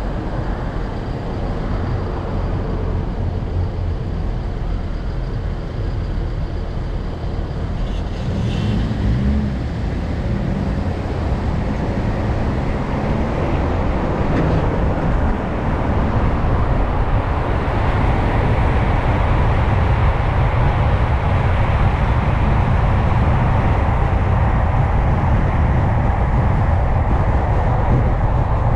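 Car driving along a road: steady tyre and engine noise. It grows louder from about a third of the way in and then holds steady at the higher level.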